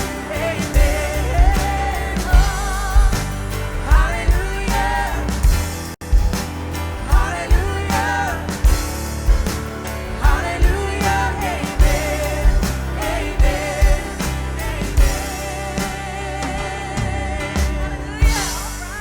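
Live church worship band of drums, bass, guitars and keyboards playing under several singers holding sung lines with vibrato, over a steady drum beat. A bright cymbal-like wash swells near the end.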